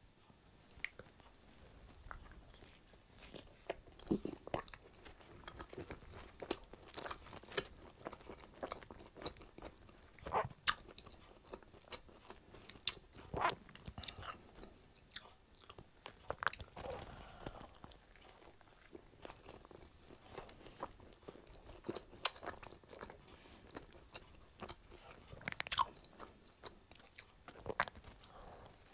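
Close-up eating sounds: a person biting into and chewing a slice of pizza dipped in garlic and herb dip, with irregular sharp wet mouth clicks.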